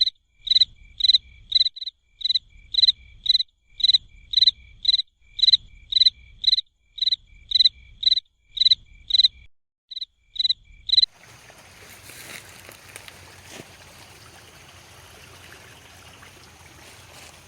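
An animal calling with a loud, high, evenly repeated chirp, about two calls a second. About eleven seconds in it cuts off abruptly, leaving the steady hiss of running water.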